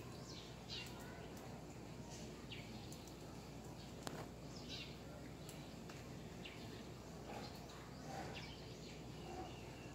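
Faint birds chirping, short high calls repeated on and off over a steady low background, with one sharp click about four seconds in.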